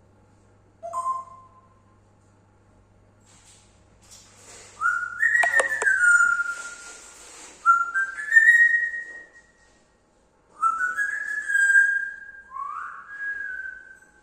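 A pet parrot whistling: a short call about a second in, then a string of whistles that each rise quickly and then hold their pitch, with short gaps between them.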